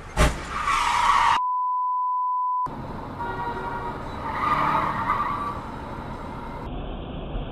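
Car collision heard from inside a vehicle: a sudden bang, then the hiss of skidding tyres, cut short by a steady one-pitch beep lasting about a second. Then road and tyre noise with a further swell of tyre squeal.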